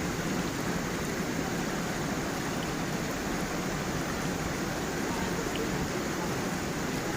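Stream water rushing steadily over stones and small falls, an even, unbroken sound of running water.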